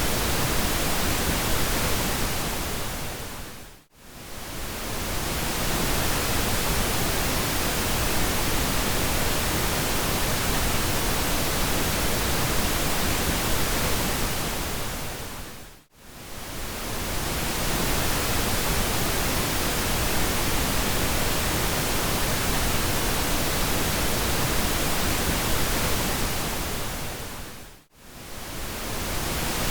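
Steady synthetic pink noise, an even hiss spread from low to high, that fades down briefly to near silence and back up three times, about twelve seconds apart.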